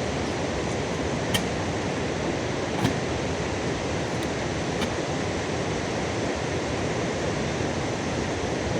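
Steady rain falling in a storm, with a few faint clicks.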